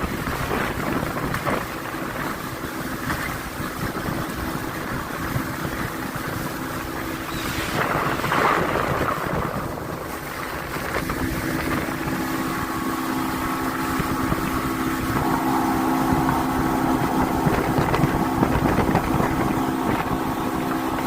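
A motorboat's engine running steadily under wind buffeting the microphone, with rushing noise throughout; about halfway through the engine's steady hum comes through more clearly.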